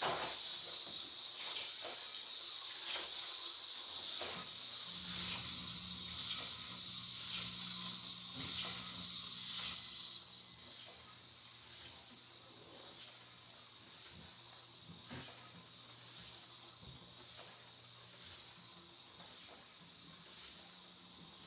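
Aurora HO slot car running laps on a small track: its tiny electric motor gives a steady high hiss that starts suddenly and cuts off at the end, with faint regular ticks as it passes track joints and a low hum under it from about five seconds in.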